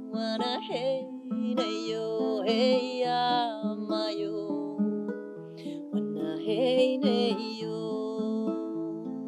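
Acoustic guitar picked in slow, flowing arpeggios while a woman sings a slow, wavering melody over it.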